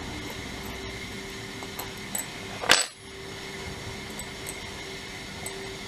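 A single sharp metallic clink about three seconds in, typical of a metal hand tool being set down on a hard surface. A few lighter taps come before it, over a steady low hum.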